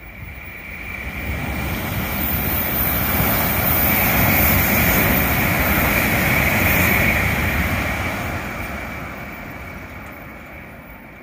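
A Shinkansen high-speed train on the Sanyo Shinkansen line passing close by and running away down the track: a rushing noise that swells for a few seconds, holds at its loudest, then fades steadily as the train recedes.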